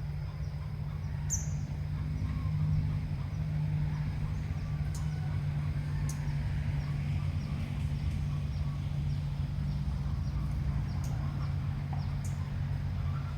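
Faint, scattered bird chirps over a steady low rumble, with a few sharp high ticks.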